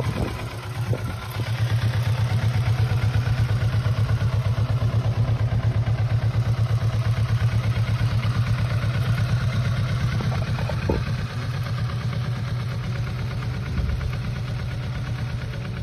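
Kawasaki Vulcan S's 649 cc parallel-twin engine idling steadily, with an even, pulsing exhaust beat.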